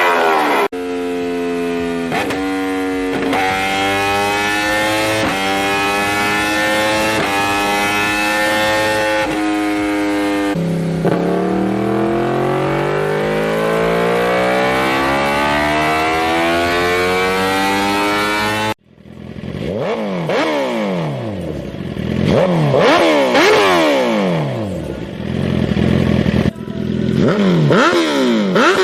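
Motorcycle engine accelerating hard through the gears through a loud aftermarket exhaust, its pitch climbing and dropping back with each quick upshift, then one long climbing run. After a sudden cut about two-thirds in, a motorcycle engine is revved repeatedly in sharp throttle blips, each rising and falling about once a second.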